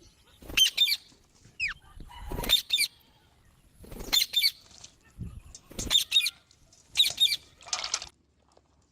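Green parrots giving short, shrill squawks in repeated clusters, one call near the start gliding downward, with low thumps or wing flutters under some calls. The calling stops shortly before the end.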